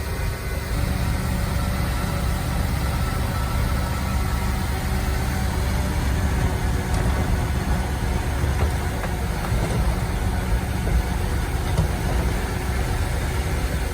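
Engine of heavy earthmoving machinery running steadily with a low drone.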